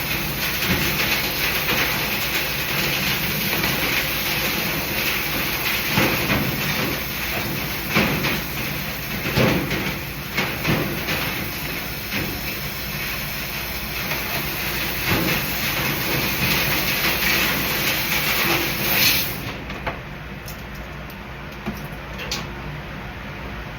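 Air duct cleaning equipment running: a steady rush of air with a low hum and scattered knocks. The high hiss cuts out about 19 seconds in, leaving a quieter hum.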